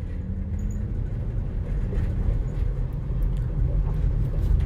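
A steady low rumble of background noise, even and without clear events.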